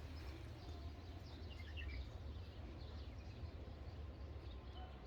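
Faint outdoor ambience: a few distant bird chirps over a low, steady rumble.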